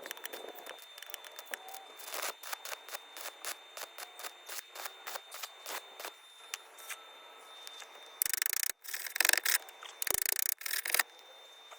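Hand tool scraping or filing on car body sheet metal, in short even strokes about two a second, then three short, loud bursts of harsh crackling noise near the end.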